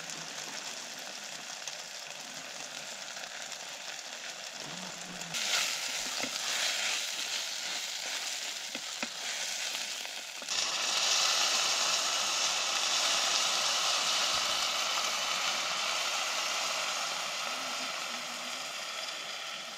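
Rice, tomato and spices sizzling as they fry in a steel pan on a gas canister stove, stirred and scraped with a wooden spatula. The sizzle steps up about halfway through and stays loud.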